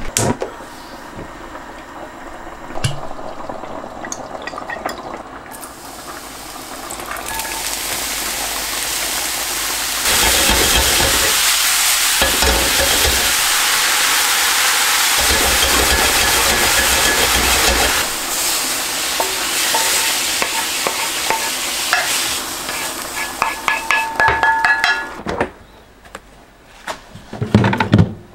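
Finely chopped button mushrooms sizzling and being stirred in a very hot cast-iron skillet; the frying builds, is loudest about ten seconds in and eases off around eighteen seconds. Near the end, a few sharp clinks and knocks.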